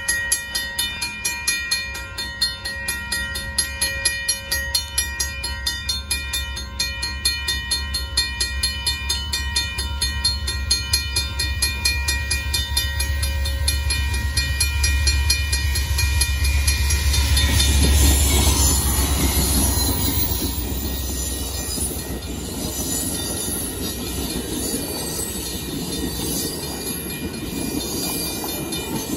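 Railroad crossing bells ringing in steady, rapid strokes while a diesel-hauled Amtrak passenger train approaches, its low rumble building to a peak about 18 seconds in. After that the bilevel Superliner passenger cars roll past with a rougher, broader rush of wheel-on-rail noise that covers the bells.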